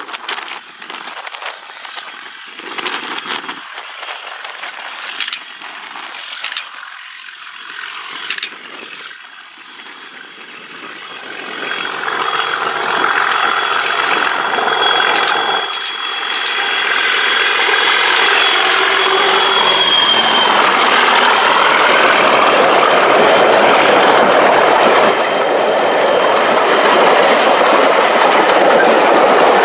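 Class 37 diesel locomotive D6732's English Electric V12 engine on thrash, faint at first and then swelling about a third of the way in to a loud, steady sound that holds to the end. A thin high whistle sits over it for several seconds soon after it swells.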